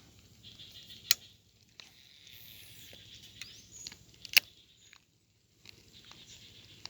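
Fishing tackle worked during a cast-and-retrieve: two sharp clicks about three seconds apart, with a faint steady whir between them.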